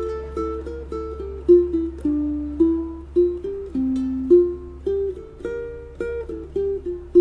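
BrightSun BS80T tenor ukulele with a solid spruce top, plucked in a melody of single notes with some notes played together, each note ringing and fading.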